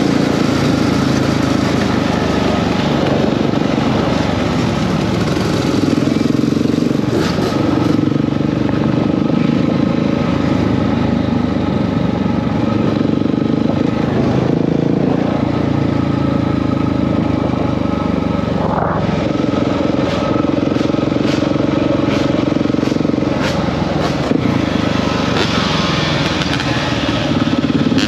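Dirt bike engine running at riding speed, its note stepping up and down every few seconds as the throttle and gears change.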